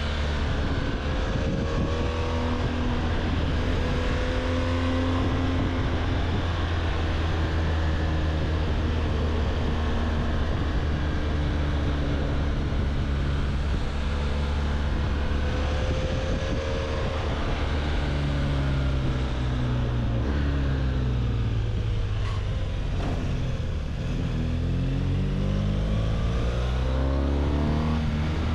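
BMW R1200GS boxer-twin motorcycle engine running under way, holding a steady pitch, then dropping in revs about two thirds of the way through as the bike slows, and revving up again near the end as it accelerates.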